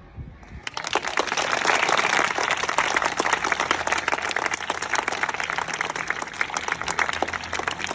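A group of schoolchildren applauding. The clapping starts abruptly about half a second in and keeps up as a dense, steady patter.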